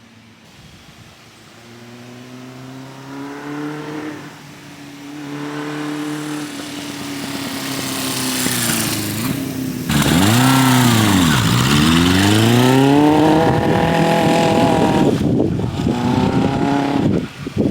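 1978 Honda CB550K's air-cooled inline four-cylinder engine accelerating through several gears, its pitch climbing and dropping at each shift as it grows steadily louder. From about ten seconds in it is loud, its pitch sweeping up and down several times. The owner finds the bike not running well, stumbling between 4,000 and 5,000 rpm as if running out of fuel.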